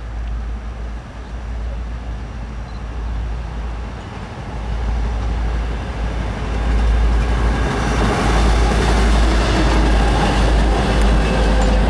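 Norfolk Southern train approaching on the rails, its rumble growing louder and higher, with a marked rise about seven seconds in as it comes close.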